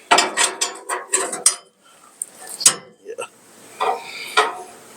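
Metal clinks and knocks of a hand wrench working the bolts on a steel truck bumper mount: a quick run of clicks at first, one sharp knock near the middle, and a few more toward the end.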